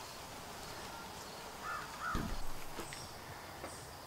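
A bird calls twice in quick succession, two short arched calls, about two seconds in, with a low knock at the same moment and a few faint clicks over quiet background.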